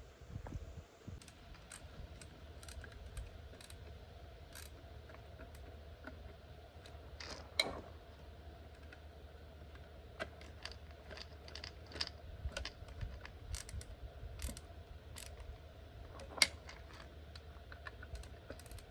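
Faint scattered clicks and clinks of small metal parts being handled while a new CBN grinding wheel is fitted to an Oregon 410-120 chain grinder, with a sharper clink about a third of the way in and another near the end.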